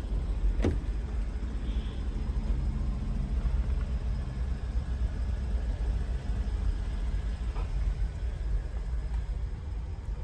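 The 2020 Chevrolet Blazer RS's 3.6-litre V6 running at a steady idle, a low rumble. A short click sounds about a second in and again near the end.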